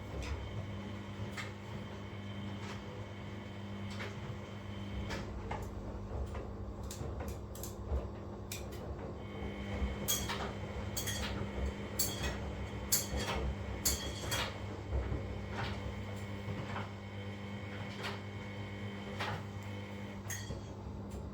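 Washing machines running a wash cycle: a steady motor hum, with scattered clicks and knocks from the laundry tumbling in the drum. The knocks come thickest a little after the middle.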